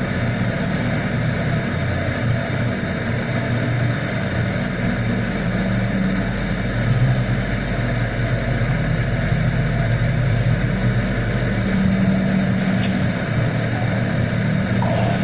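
A machine running steadily, a low motor hum under a constant hiss.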